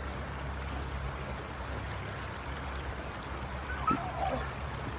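Creek water rushing over rocks in a steady, even hiss.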